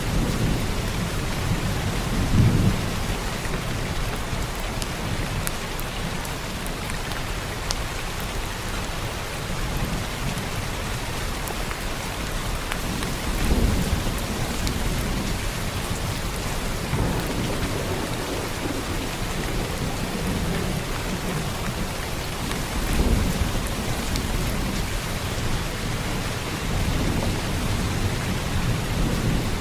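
Heavy rain falling steadily, with low thunder rumbling several times over it, the loudest rolls a couple of seconds in, around the middle and about three-quarters through.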